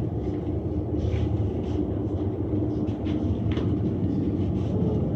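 Steady rumble inside a moving aerial tramway car riding its cables, with a low steady hum running through it and a few faint, brief sounds above it.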